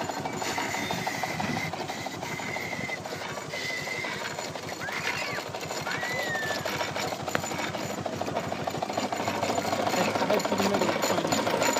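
4-inch scale Burrell steam road locomotive running under way: a rapid, steady beat of exhaust and motion clatter, getting louder over the last few seconds.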